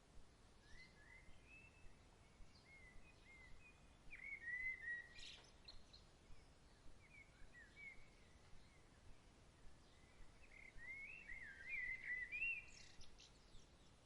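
Faint evening birdsong: scattered groups of short, gliding chirps over a soft even hiss, loudest a little past four seconds and again near the end.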